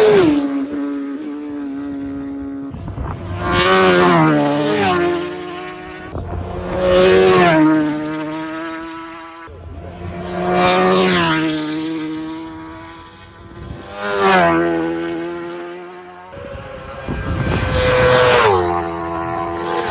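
Superbikes racing past at full speed one after another, six passes about three to four seconds apart. Each has a high-revving engine note that swells and then drops in pitch as the bike goes by.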